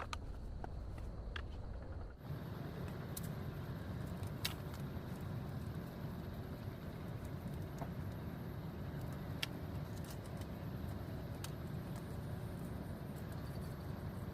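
Steady heavy rain, a continuous rushing noise with a deep low rumble, with a few sharp ticks scattered through it. The sound changes abruptly about two seconds in.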